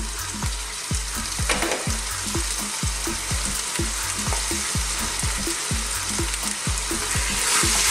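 Lamb and onions sizzling in olive oil in an open pressure cooker pot over high heat, the sizzle growing louder near the end. Background music with a drum beat about twice a second runs underneath.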